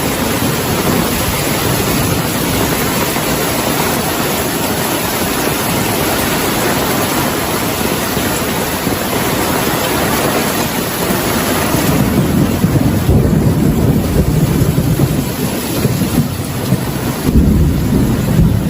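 Heavy rain falling steadily, with thunder rumbling in about two-thirds of the way through and growing loudest near the end.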